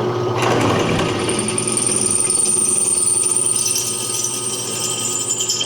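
Electric drill running with a cobalt bit boring into a broken bolt, a steady motor hum with a high squeal of the bit cutting that comes in about a second in. The bit is dull and resisting going in.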